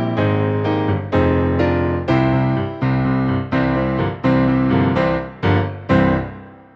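Piano playing a slow run of full chords, a new chord struck about every two-thirds of a second. The last chord, near the end, rings on and fades away.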